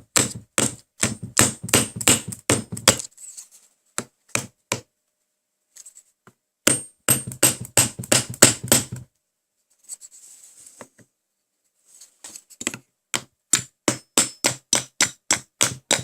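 Rapid hammer blows, about four a second, in three runs with short pauses between them. They are knocking the end cover of a small induction motor loose from its housing after its nuts have been undone.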